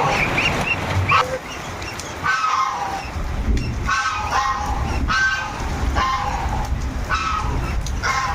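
Domestic waterfowl giving short, nasal honking calls, roughly one a second, over a steady hiss of rain.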